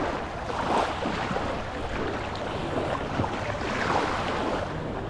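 Small sea waves washing onto the shore, swelling about a second in and again near the end, with wind buffeting the microphone.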